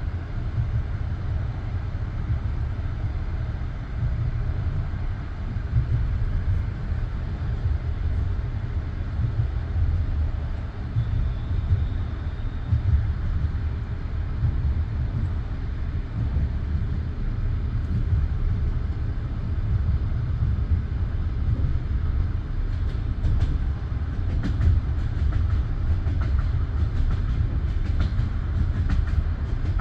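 Passenger train carriage rolling along the track: a steady low rumble of the wheels on the rails, with a run of sharp wheel clicks over rail joints in the last several seconds.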